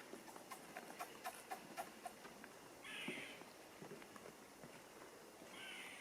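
A bird giving short, harsh, hissing calls, repeated about every three seconds, with a run of light clicks in the first two seconds.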